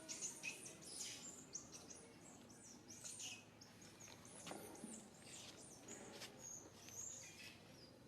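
Faint, high-pitched chirps, many short calls in quick succession over a low background hiss.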